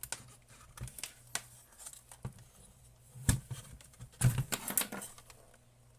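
Irregular clicks and light knocks of small hard objects being handled, with a louder cluster a little past the middle, over a faint steady low hum.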